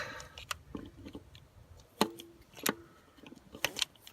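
Sharp metallic clicks and clinks of a socket, extension and torque wrench being handled and pulled apart. Several separate clicks are followed by a quick cluster near the end.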